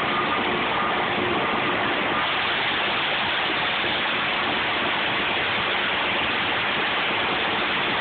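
Steady rushing, gushing noise of a truck discharging a liquid load.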